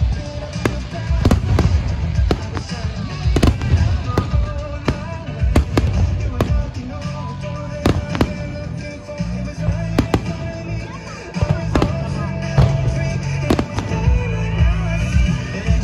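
Aerial fireworks bursting in rapid succession, many sharp bangs a second with a low rumble between them, over music.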